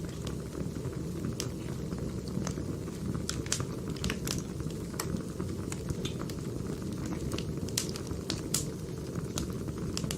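Wood fire burning: a steady low rush with frequent sharp crackles and pops at irregular intervals.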